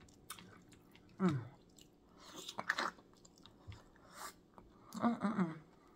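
Close-up chewing and mouth sounds of someone eating boiled crawfish, with scattered small clicks and crunches. Brief hummed "mm" sounds of enjoyment come about a second in and again near the end.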